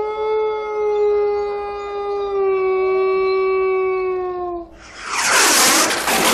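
A single long, steady howl of about four and a half seconds that sags slightly in pitch as it fades, followed about five seconds in by a sudden, loud burst of noise.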